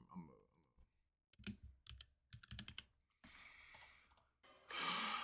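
Typing on a computer keyboard: a quick run of key clicks, followed by two longer stretches of soft hissing noise near the end.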